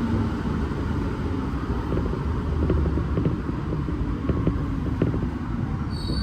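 Steady low rumble inside an Alstom NS-16 metro car standing at a station, with scattered clicks. High steady tones start near the end.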